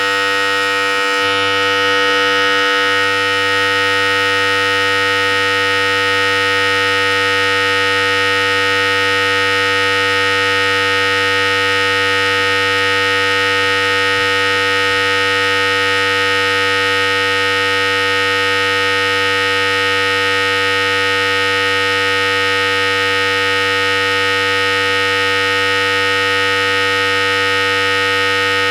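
Philips Series 5000 electric hair clipper running steadily with a continuous even buzz.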